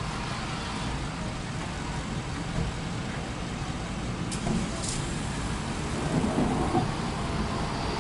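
Steady low rumble of a MARC commuter train running on the track, with two brief high hisses about halfway through.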